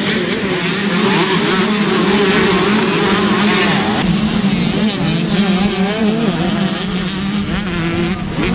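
125 cc two-stroke motocross bikes racing, engines revving up and down continuously. A high hiss drops away suddenly about four seconds in.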